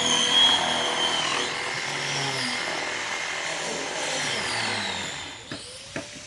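A handheld power tool runs under load, cutting or grinding, with its whine dipping and recovering. It stops about five seconds in, and a few light knocks follow.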